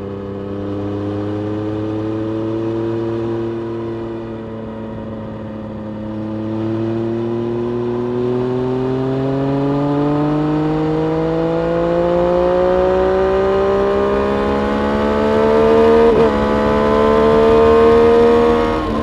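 Triumph Street Triple RS 765 cc inline three-cylinder engine under load on track. After a short dip, its pitch climbs slowly and steadily for most of the stretch, with a brief break near the end and a drop in pitch at the very end.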